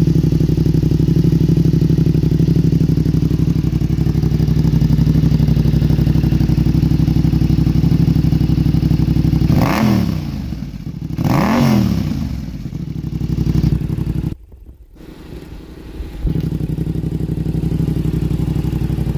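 2025 Yamaha MT-07's 689 cc parallel-twin engine idling steadily through a full Vandemon titanium exhaust, then revved twice, each blip rising and falling quickly. Later the sound drops away for about two seconds before the idle returns.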